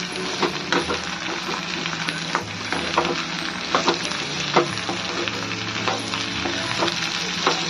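Turnip cubes sizzling in hot oil with fried onions in a kadhai, stirred with a steel spoon that clinks and scrapes irregularly against the pan.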